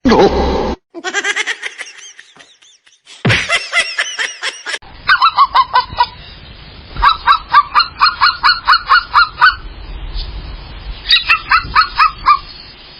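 Rapid runs of a bird's short pitched calls, about five or six a second, in three bursts with short pauses between. A loud sudden sound comes at the very start.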